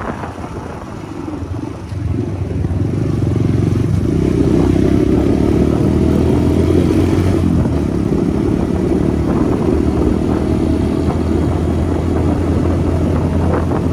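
Motorcycle engine running steadily while riding. It gets louder about two seconds in and then holds at an even level.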